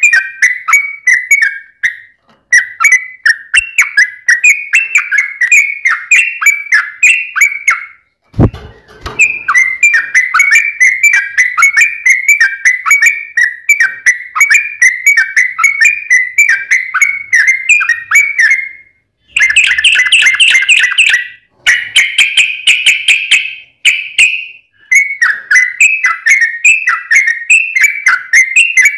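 Yellow-vented bulbul singing a long, fast, chattering song of quick repeated notes in several long phrases with short breaks; the phrases after the middle are louder and denser. A single dull thump about eight seconds in.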